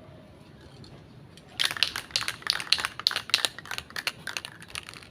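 A rapid, irregular run of sharp clicks and taps, starting about a second and a half in and stopping just before the end.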